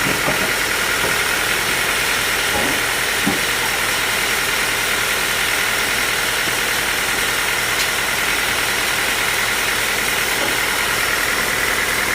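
Sawmill machinery running steadily, with a few light knocks about three seconds in.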